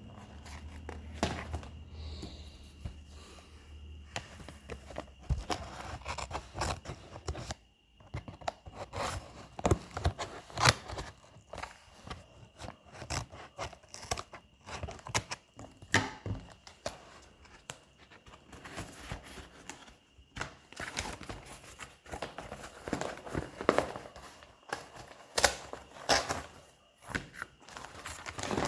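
Plastic packaging and small plastic parts being handled: irregular crinkling and rustling with many sharp clicks and knocks.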